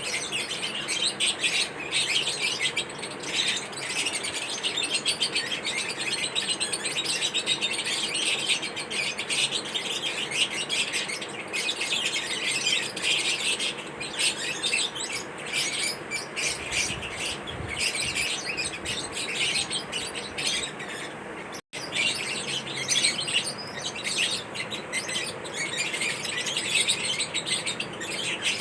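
Pet parrots chirping continuously, many short calls overlapping. The sound cuts out for an instant about three quarters of the way through.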